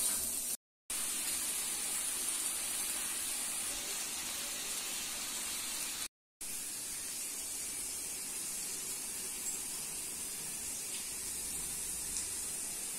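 Steady sizzling hiss of diced potatoes frying in oil in an iron kadai, broken by two brief drop-outs to silence, one near the start and one about six seconds in.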